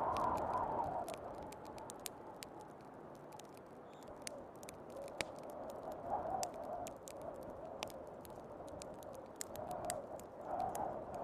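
Wood fire crackling with irregular sharp pops, over a wind-like whoosh that is strong at the start, eases off, and swells again near the end.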